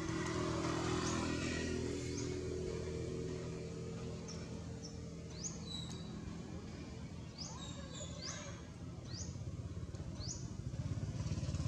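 Short, high, rising bird chirps every second or so over a steady low engine hum, which grows louder near the end.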